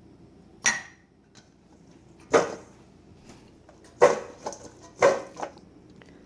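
Kitchen clatter: about six sharp knocks and clinks of dishes and utensils being handled on a counter, the first with a brief ring.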